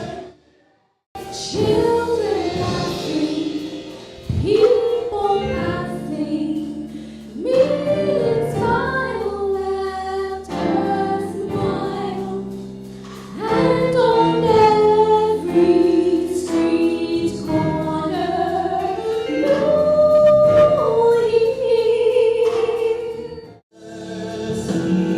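A choir singing gospel music. The sound drops out for about a second just after the start and dips briefly near the end.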